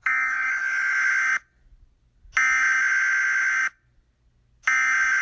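Smartphone emergency alert tone for a tornado warning: three long, loud, steady buzzing tones, each over a second long, with about a second of silence between them.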